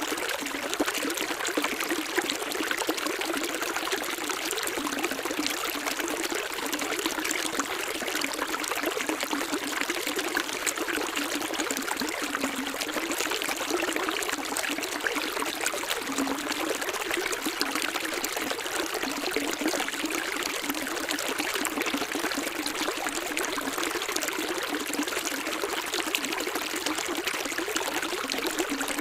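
Running water of a small stream, trickling and splashing steadily without letup.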